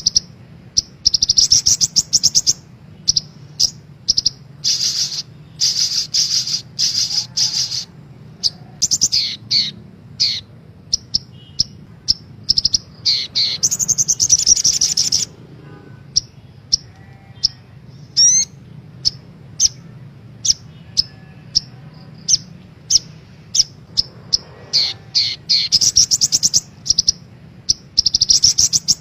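Crimson sunbird singing: long, very high, rapid trills alternating with runs of short, sharp chips, over a faint low hum.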